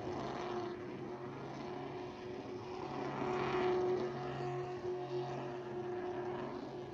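Pickup truck engine held at high revs during a burnout, a steady drone.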